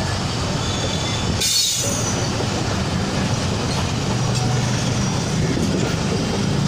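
Passenger coaches of a train rolling past on the track, a steady rumble of wheels and running gear, with a short high-pitched wheel squeal about one and a half seconds in.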